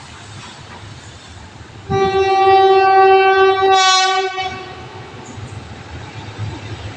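Train horn sounding one long steady blast of about two and a half seconds, starting about two seconds in, over the low rumble of a passing train.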